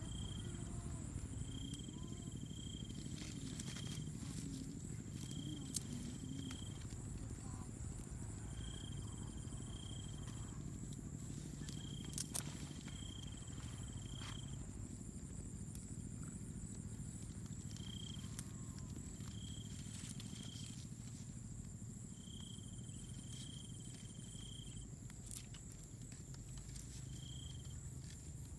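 Jungle insects calling: one insect keeps up a steady high drone, while another calls in short repeated bursts every couple of seconds. Under them runs a low rumble, with a few sharp clicks.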